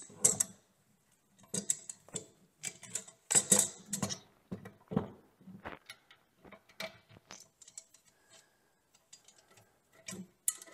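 Irregular clicks, clinks and light knocks of small metal hardware (bolts, washers, knobs) being handled while a random orbit sander is fitted into a tilting sander base.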